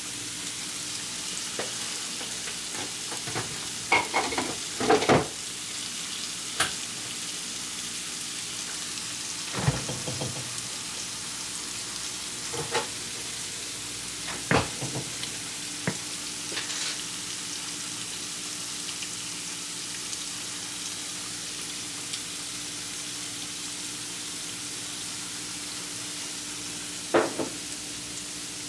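Onions, bell peppers and garlic sizzling steadily as they fry in a hot pan, with the occasional clack and scrape of a spoon stirring against the pan, a few loud ones about four to five seconds in and one near the end. A faint steady hum runs underneath.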